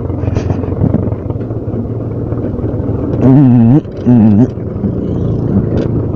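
Yamaha FZ-S motorcycle with a free-flow exhaust running steadily as it is ridden. A loud voice cuts in twice, briefly, about three and four seconds in.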